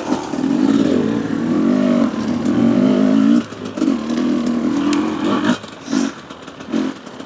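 Two-stroke Husqvarna TE250 enduro bike engine pulling away at low speed, rising in pitch for the first few seconds. After that it comes as short bursts of throttle with dips between them.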